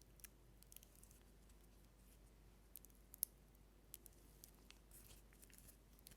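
Faint, irregular small clicks and ticks close to the microphone, about a dozen, with the loudest about three seconds in.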